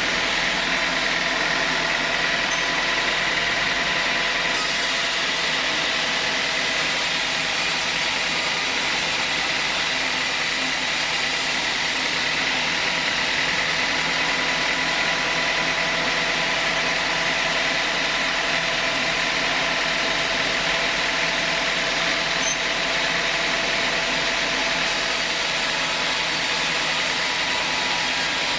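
Sawmill saw running steadily: a continuous mechanical whine with a steady high tone over even noise.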